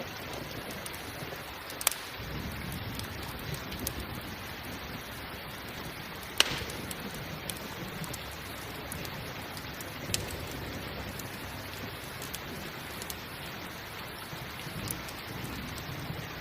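Steady rain hiss mixed with a campfire crackling: irregular sharp pops of burning wood, the loudest about six seconds in.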